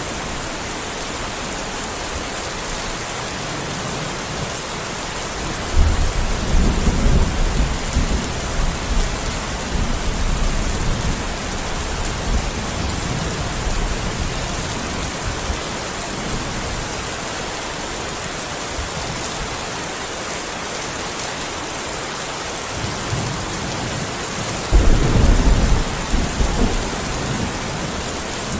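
Steady heavy rain hissing, with two low rolls of thunder, one about six seconds in and another near the end, each rumbling for a few seconds.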